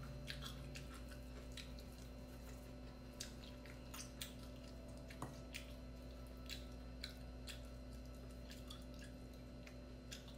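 Close-up eating sounds: a person chewing a mouthful of fish and rice, with scattered wet mouth clicks and smacks, about one or two a second and irregular.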